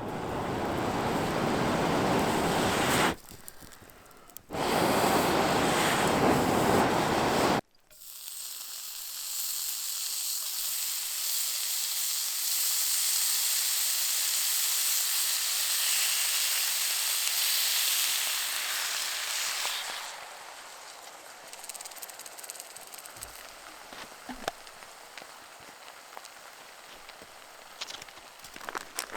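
Fire in a wood-chip camp stove burning, in several cut clips. A full rushing noise for the first seven seconds stops at a sudden cut. A high hiss follows and then fades to soft crackles after about twenty seconds.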